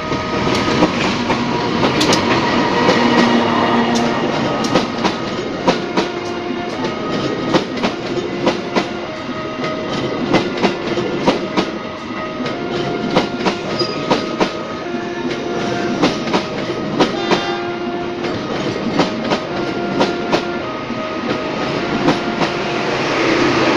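Passenger train coaches running past close by, a steady rumble with the wheels clacking over rail joints. Over it, a level-crossing warning signal sounds a repeating chime of alternating pitches.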